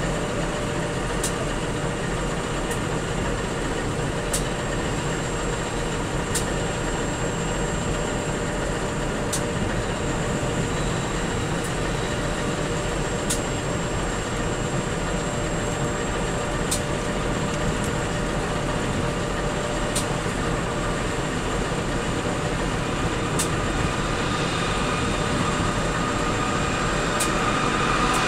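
Coal train approaching on diesel locomotives: steady engine and rail noise with sharp ticks every second or two, growing louder near the end as the locomotives draw close.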